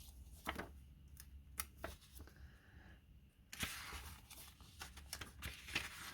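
Faint rustling of glossy magazine paper being handled, with a few light clicks and taps, then a longer rustle about three and a half seconds in.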